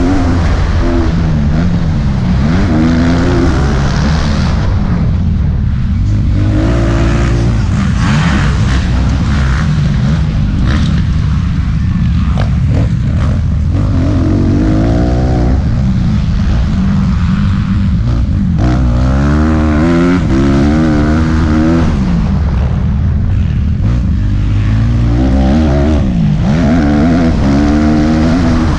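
Motocross bike engine racing, its pitch climbing and dropping over and over as the throttle is worked through corners and straights.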